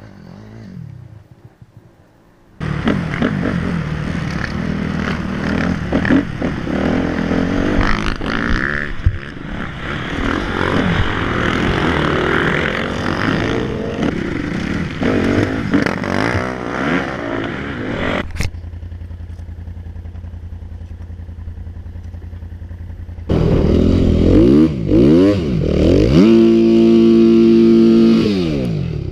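Dirt bike engines running and revving across several cut-together clips. Near the end one engine revs in quick rising and falling sweeps, then holds a steady high rev.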